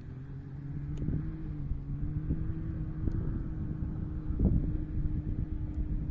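Engine of an off-road vehicle, an ATV or dirt bike, running at a distance with a steady hum, while wind buffets the microphone with low rumbles and thumps.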